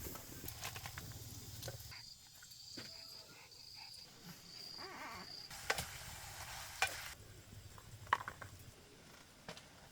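Faint sizzling of food frying in oil, with a few sharp clicks, like a utensil striking the pan, in the second half.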